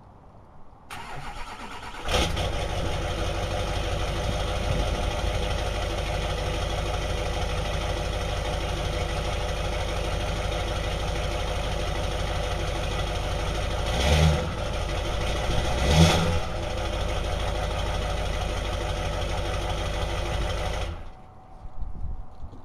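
Duramax 6.6-litre V8 turbo-diesel cranking for about a second, then starting about two seconds in and idling steadily through its stock exhaust. It is blipped twice in quick succession and then shut off, stopping suddenly near the end.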